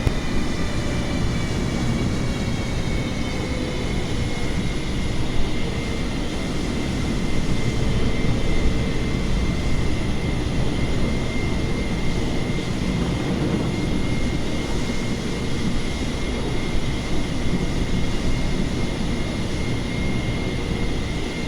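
Jet airliner engines running steadily: a high whine and a lower hum over a broad rush. The upper tones drop slightly in pitch during the first few seconds.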